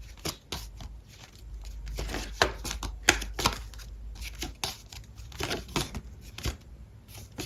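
Tarot cards being handled on a table: an irregular run of soft clicks, slaps and rustles over a low steady hum.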